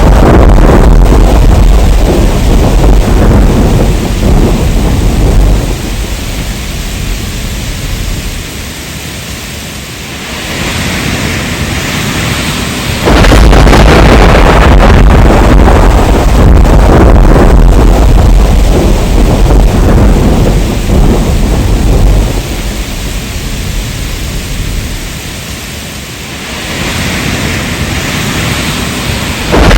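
Heavy rain with long rolls of thunder: a loud low rumble fades into steady rain hiss, then the rumble cuts back in abruptly about halfway through and fades again.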